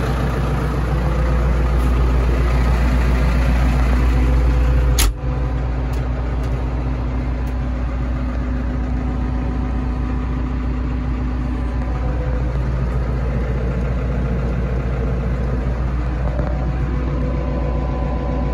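Landini Powerfarm 100 tractor's diesel engine idling steadily. A sharp click comes about five seconds in, after which the engine carries on with a slightly weaker low rumble.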